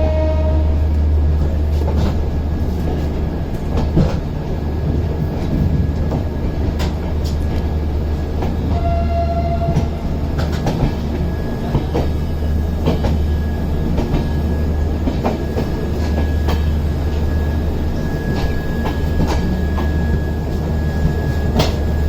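Passenger express train running at speed: a heavy steady low rumble with scattered clicks and knocks from the wheels on the track.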